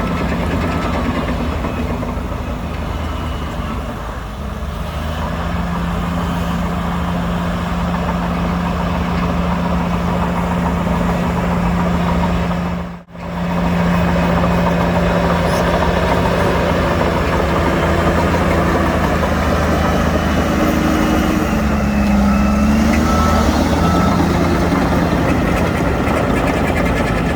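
Diesel engines of heavy earthmoving equipment (bulldozer and dump trucks) running steadily, with a momentary dropout about halfway through and a brief rise in engine pitch later on.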